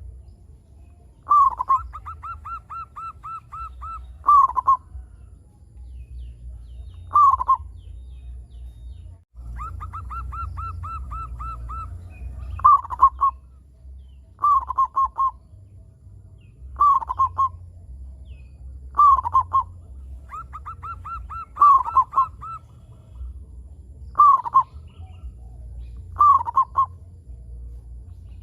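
Zebra dove (perkutut) cooing repeatedly: about ten short, loud, falling coos, with three runs of rapid staccato notes in between. A steady low rumble sits underneath.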